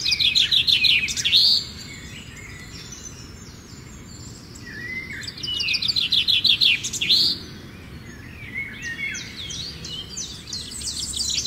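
Birds singing: two loud bursts of rapid, trilled notes, one at the start and one around the middle, with softer scattered chirps in between and near the end.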